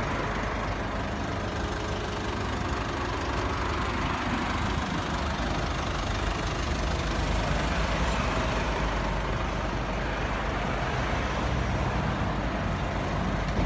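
A vehicle engine idling steadily: an even low hum with a hiss above it and no changes.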